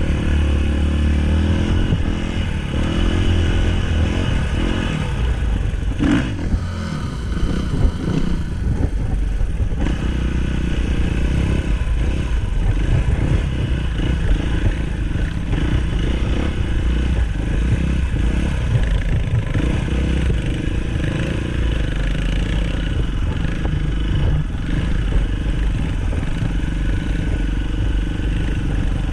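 Dirt bike engine running continuously while riding a trail, its pitch shifting a little with the throttle, with rattle from the bike over rough ground.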